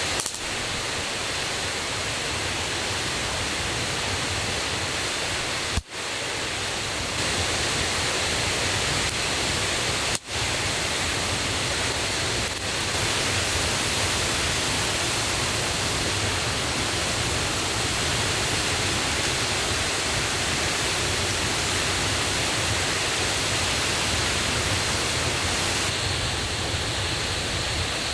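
Rushing water of a mountain river and waterfall running loud and high after heavy rain, a steady roar of noise, cutting out briefly twice.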